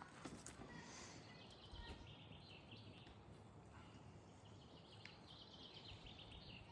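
Faint birdsong: two runs of rapid, high chirps, each about two seconds long, over quiet outdoor background.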